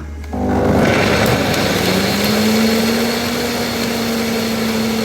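Electric blender motor starting up, its hum rising in pitch for about two seconds and then running steadily under a constant whirring noise.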